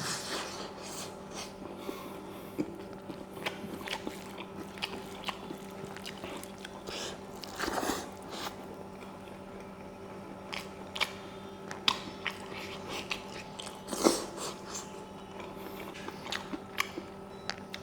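A person chewing and eating a meal close to the microphone: irregular wet smacks, bites and small crunches. A faint steady hum runs underneath.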